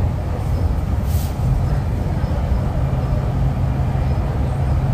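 MTR East Rail Line R-Train electric multiple unit running along the line, heard from inside the car as a steady low rumble, with a brief hiss about a second in.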